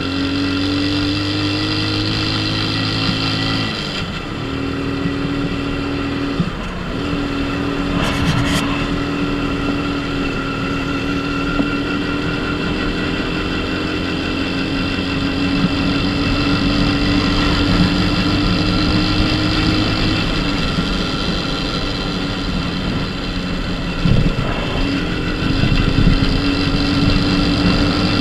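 Dafra Super 50cc motorcycle's small engine running under way at a steady cruise, its note slowly climbing. The note dips briefly about four seconds in, again a couple of seconds later, and once more near the end.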